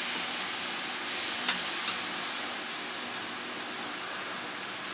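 Onion, tomato and spice masala sizzling in a metal kadhai on a gas stove, with two short clicks of the slotted spatula against the pan about a second and a half in.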